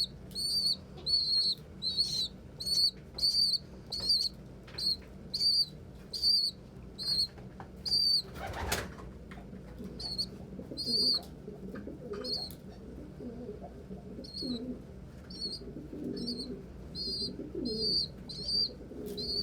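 A young pigeon (squeaker) peeping over and over, short high peeps at about two a second, the begging call of a bird still fed by its parents. Once, about nine seconds in, there is a brief flap of wings, and after it adult pigeons coo low underneath the intermittent peeps.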